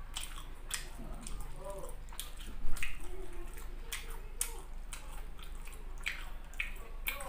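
Close-miked wet chewing with the mouth closed: irregular moist smacks and clicks, several a second, one louder smack nearly three seconds in.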